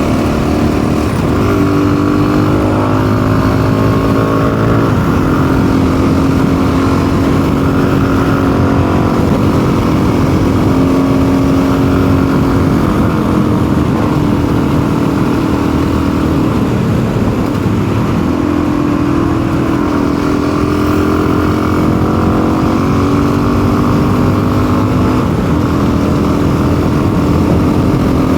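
Custom motorcycle's engine running under way, its pitch climbing and dropping as the throttle and speed change. The bike is running roughly, which the rider suspects is a carburettor mixture problem, either too lean or too rich.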